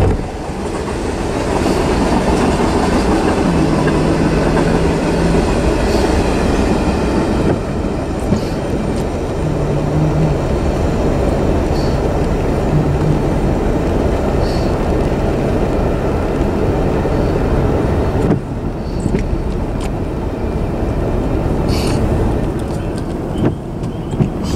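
Norfolk Southern freight train of tank cars rolling past and going away, a steady loud rumble of wheels on rail.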